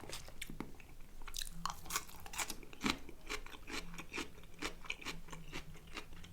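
A person chewing food close to the microphone, with a run of wet mouth clicks, several a second.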